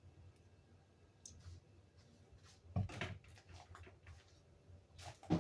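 Kitchenware being handled: a few soft clicks, then short knocks about three seconds in and again near the end, over a faint low hum.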